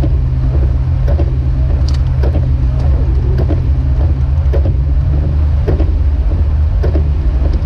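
Jeep Wrangler YJ driving on snowy roads: a steady low engine and road rumble, with faint light knocks now and then.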